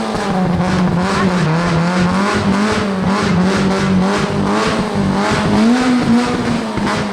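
Rally car's engine held at high revs under full throttle, its pitch staying high and wavering only slightly up and down.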